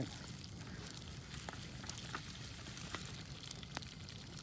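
Wood bonfire crackling steadily, with a few sharp snaps spread through.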